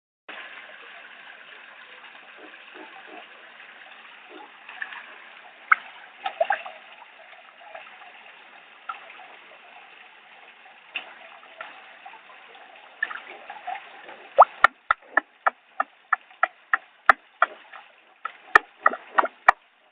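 Running water from a garden waterfall, a steady trickle and splash. A fast series of sharp clicks, about three a second, comes in over it for the last five seconds.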